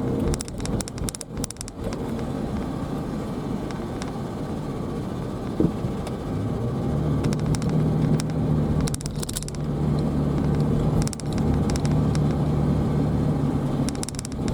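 A car driving: steady road and engine rumble, with a steady hum joining about seven seconds in and bursts of crackling rattle now and then.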